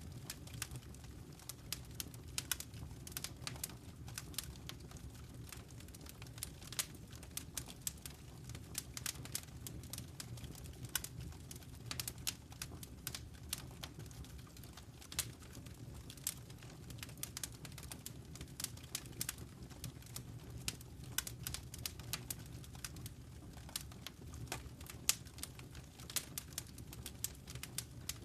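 Fire crackling in a fireplace: irregular sharp pops and snaps, many a second, over a steady low rumble.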